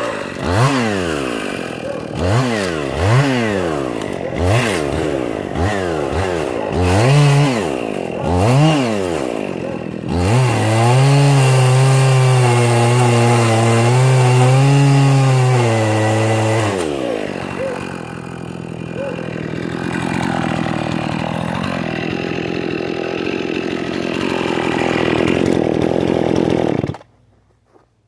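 Husqvarna 55 Rancher two-stroke chainsaw revved in a series of short throttle blips, then held at high speed for about six seconds. It then runs at a lower, uneven speed until the sound cuts off abruptly near the end.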